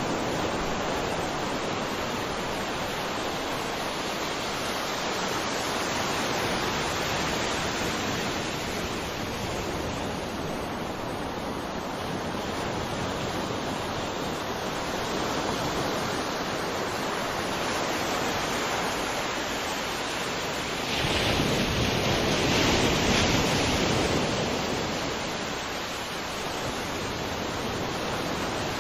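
Sea surf: waves rushing steadily on the shore. One louder wave swells and breaks about three quarters of the way through, then fades.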